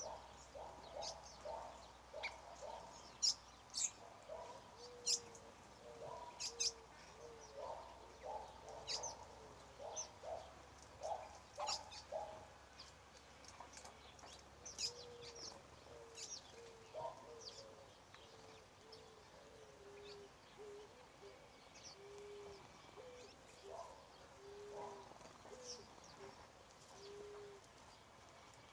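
Several birds calling: runs of short, low, hooting notes, about two a second through the second half, over scattered high thin chirps.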